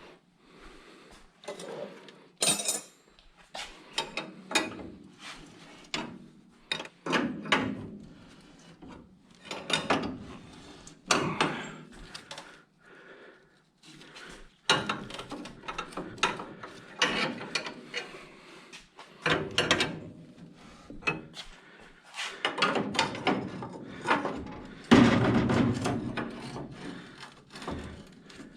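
Irregular knocks, taps and clatter of hand work in a car workshop: many separate strikes with short gaps, some running together into brief stretches of rattling.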